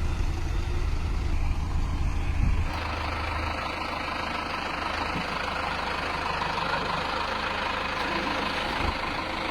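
Tractor engines running steadily with a deep low rumble. A few seconds in, the sound changes abruptly to a lighter, noisier engine sound with less low rumble.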